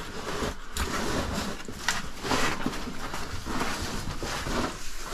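Irregular scraping and rustling of clothing and gear dragging against rock as a caver squeezes through a tight crawlway.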